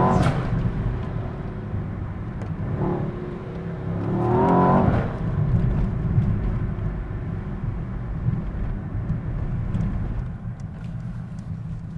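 Mercedes-AMG S63 E Performance's 4.0-litre twin-turbo V8 running while the car is driven, a steady low rumble. The engine note rises briefly at the start and again about four to five seconds in as the car accelerates.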